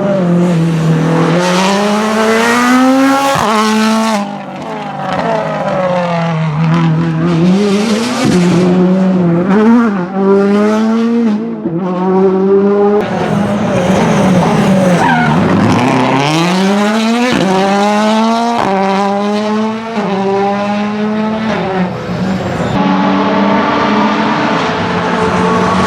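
Ford Fiesta WRC Plus rally car's turbocharged four-cylinder engine running at high revs, its pitch repeatedly climbing and dropping through gear changes. The sound cuts abruptly a few times between passes.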